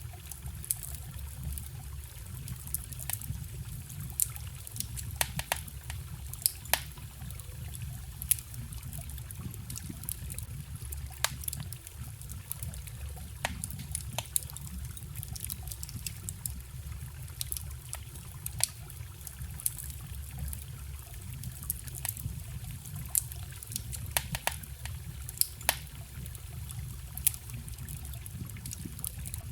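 Wood campfire crackling, with frequent sharp pops and snaps, over the steady low rush of a stream.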